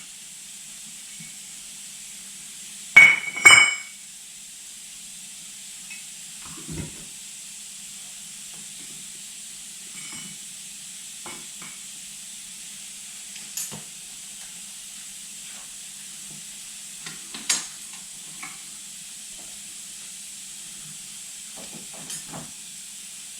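Scattered metal clinks and knocks of tools and parts being handled, two louder ones close together about three seconds in and another past the middle, over a steady hiss.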